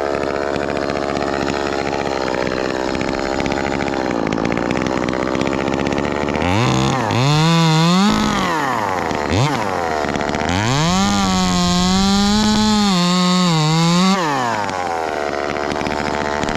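Ported Echo 2511T top-handle chainsaw, a small two-stroke, running steadily at first. From about six seconds in it is revved up and down several times, then held at high revs for a few seconds as in a cut, before dropping back and revving again near the end.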